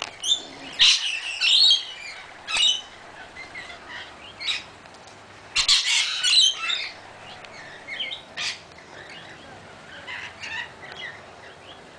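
Parrots squawking in repeated harsh, high-pitched bursts, loudest twice, about a second in and again around halfway.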